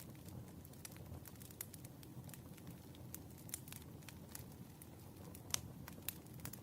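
Wood fire crackling: a low, steady rumble of burning logs with scattered sharp pops and snaps, the loudest about five and a half seconds in.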